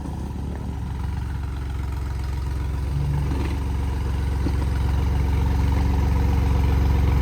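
Tractor diesel engine running at a steady pitch, its sound growing steadily louder.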